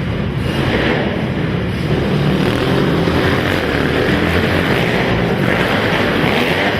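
Several racing quad ATV engines running hard together in a continuous din, swelling and fading as the machines rev and pass.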